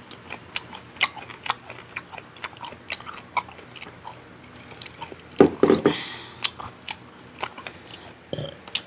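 Close-miked chewing and biting of food, with many short wet mouth clicks and a louder stretch about five and a half seconds in.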